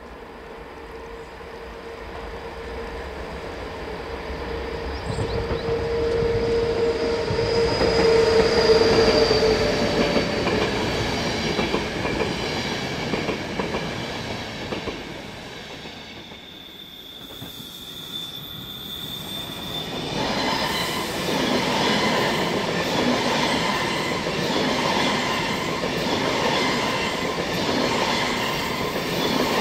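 Train running on the Semmering mountain railway, its wheels squealing on the curves, growing louder to a peak about eight seconds in. After a lull midway it returns with rhythmic wheel clatter over the rail joints.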